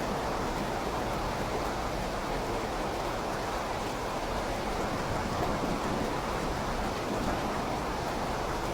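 Steady rainfall, an even continuous hiss with no distinct drops or breaks.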